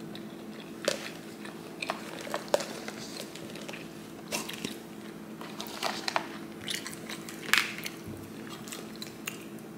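A person chewing and biting food close to the microphone: irregular sharp mouth clicks and crunches, over a faint steady hum.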